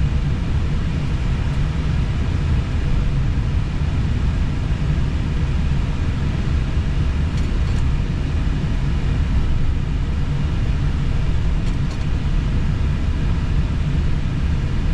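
Steady low rumble inside an Airbus A320 cockpit while taxiing, with a couple of faint clicks partway through.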